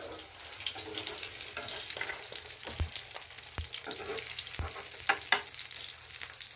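Battered pollack fillets sizzling and crackling in hot oil in a frying pan, with a few soft knocks and two sharper clicks a little past the middle.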